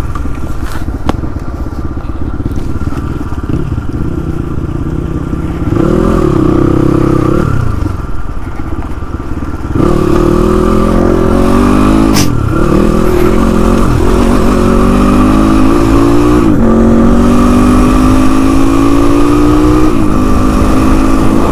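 Motorcycle engine running under way. In the second half it pulls harder, its pitch climbing and then dropping back three times as it shifts up through the gears.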